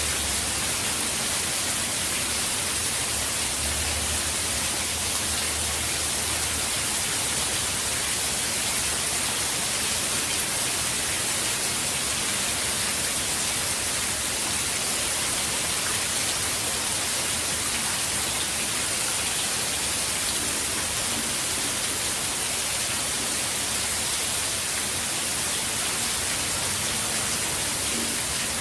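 Steady, even downpour of hurricane rain, a constant hiss with no let-up.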